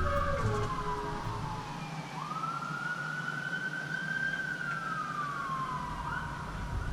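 Emergency vehicle siren wailing: one slow tone falls, climbs back about two seconds in, then falls again. A few notes of background music fade out near the start.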